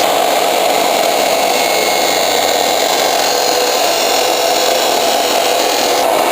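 A metalworking tool running loudly and steadily on steel, without a break.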